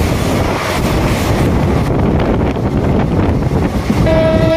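A train running at speed: loud rushing wind and rumble. About four seconds in, a train horn starts sounding, one steady note.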